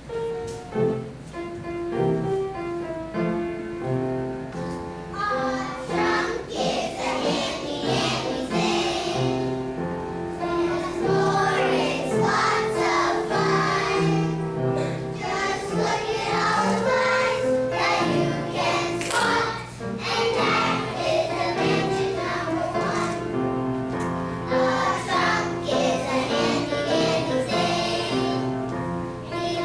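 A song with children singing together over instrumental accompaniment; the music starts at the very beginning and the voices grow fuller after about five seconds.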